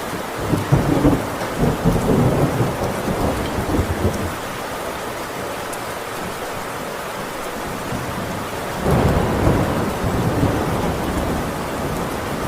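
Thunder rumbling twice over steady heavy rain on a tin roof: a long rolling rumble about half a second in that fades by about four seconds, and a second one starting about nine seconds in.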